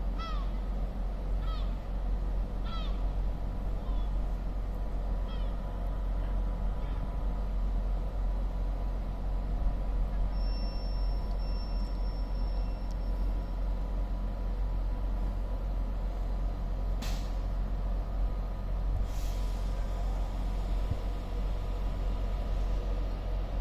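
A Class 390 Pendolino electric train stands at the platform ready to depart, making a steady low rumble with a hum. A bird calls several times in the first few seconds, each call falling in pitch. A high steady beep sounds for about three seconds partway through, and two short hisses come later.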